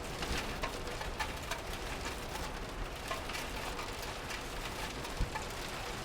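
Steady rain falling, with scattered louder drops tapping at irregular intervals.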